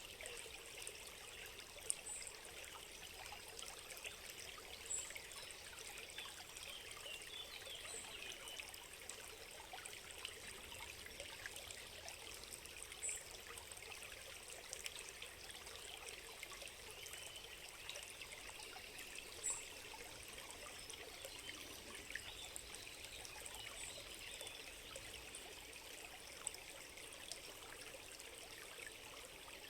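A small stream trickling steadily and faintly, with a few short, high chirps every few seconds.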